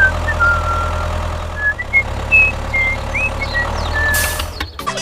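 A tractor engine running steadily with a low hum, with short high chirps scattered over it. Near the end comes a brief hiss, then the sound cuts off abruptly.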